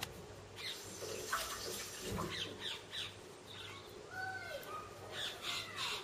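A group of small birds squeaking: many short, high calls in quick clusters, some gliding down in pitch.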